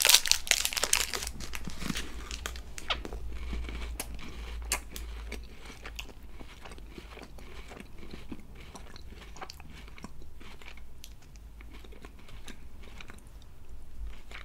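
Close-miked chewing of a crunchy KitKat chocolate wafer: loud crunching bites in the first second, then a run of smaller, crisp crunches as it is chewed.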